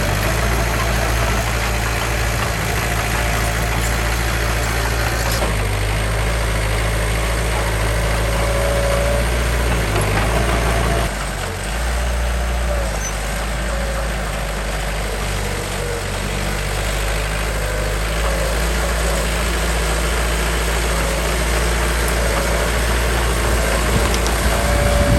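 Heavy diesel engine of earthmoving machinery running steadily, with a brief dip in level about eleven seconds in.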